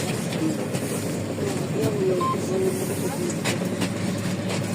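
Inside a LiAZ 5292.65 city bus under way: steady rumble of its Yuchai diesel engine and road noise, with a few short rattles from the body.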